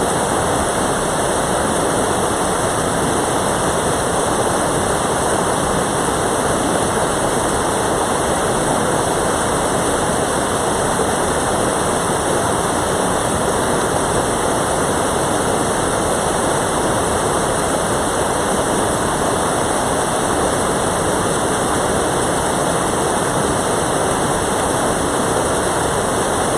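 Mountain valley stream water rushing, a loud, steady wash with no change.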